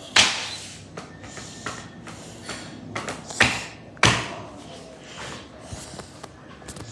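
Handling noise from a picture book: three sharp, brief knocks, each with a short rustling decay, one just after the start and two close together about three and a half and four seconds in.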